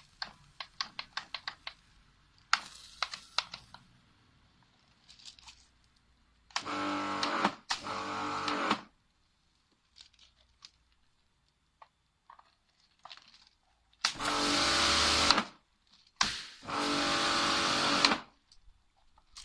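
Kärcher K5 pressure washer's motor starting and running for only a second or so before cutting out, four times in two pairs, the fault of a machine that won't keep running. A run of quick clicks in the first couple of seconds.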